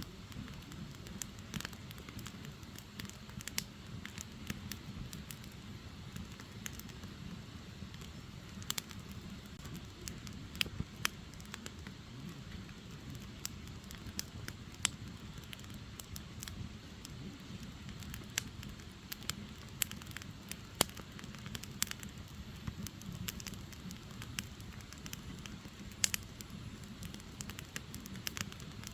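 Firewood burning in an open fire: frequent sharp crackles and pops at irregular intervals over a low, steady rumble of the flames.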